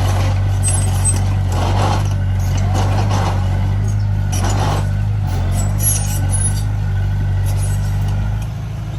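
Heavy earthmoving machine's diesel engine running at a steady speed, with a few short bursts of rushing, scraping noise over it. It eases off slightly near the end.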